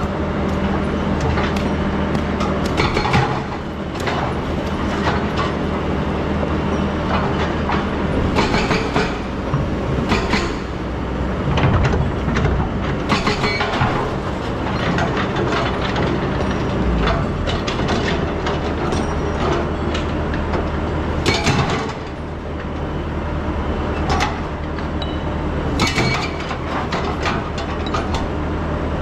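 Excavator diesel engine running steadily under load, with irregular metallic clanks and knocks from the machine working in sand and stone, a few of them sharp and loud.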